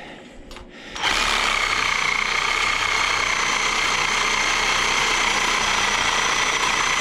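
Electric power saw switched on about a second in and running at a steady high speed, with an even whine.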